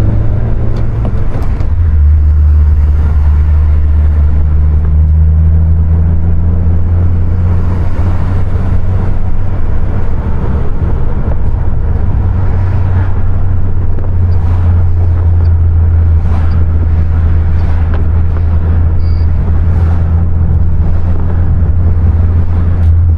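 2020 Honda Civic Si's turbocharged 1.5-litre four-cylinder engine running at a steady speed while the car is driven, a loud, even drone. Its pitch shifts about two seconds in, then holds.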